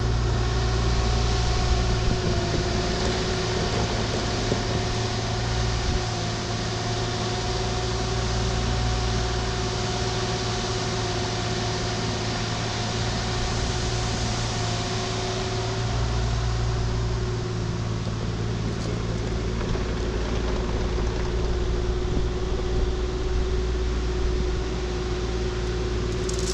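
Diesel engine of a piece of compact earthmoving equipment running at a steady speed, with a constant whine over its low hum.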